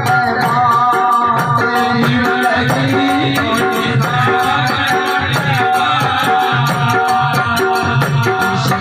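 Live Rajasthani devotional bhajan music: a sustained melody over a steady drum beat with rattling, jingling percussion, and no clear singing.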